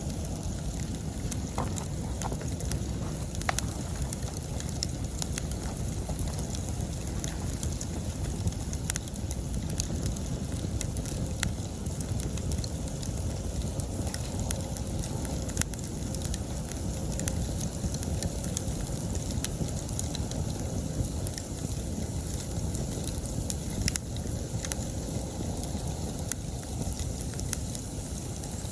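Wood bonfire burning, crackling continuously with frequent sharp pops over a low steady rush. Autumn insects chirp steadily in the background.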